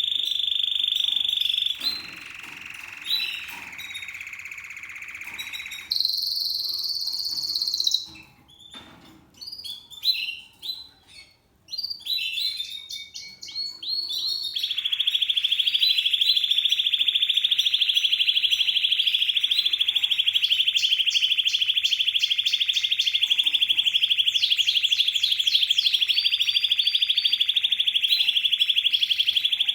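Spanish Timbrado canary singing: varied phrases at first, with a short pause, then a very long, fast rolling trill held for about fifteen seconds, the metallic timbrado song.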